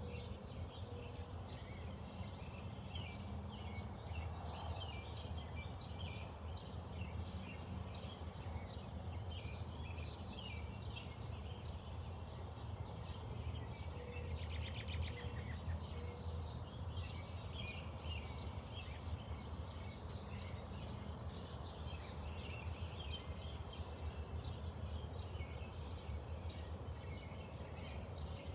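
Several songbirds chirping and singing in a morning chorus, with a fast trill about halfway through, over a steady low hum.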